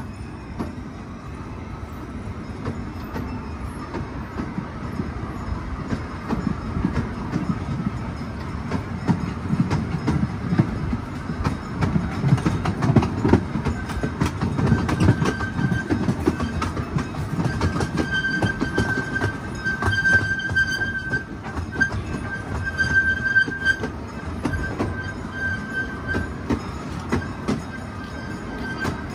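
Small amusement-park train running, heard from an open passenger car: a steady rumble with rattling and clatter of the cars on the rails, louder in the middle. In the second half a high, thin squeal comes and goes several times.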